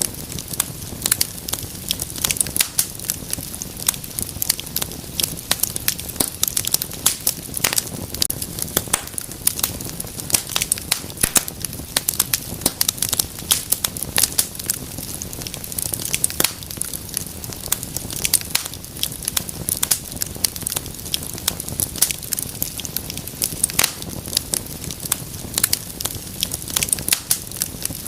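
Wood fire burning in a fireplace, crackling and popping with many irregular sharp snaps over a low steady rumble of flame.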